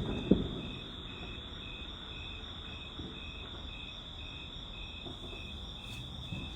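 Crickets chirping steadily, about three chirps a second over a continuous high trill, with one loud firework bang just after the start.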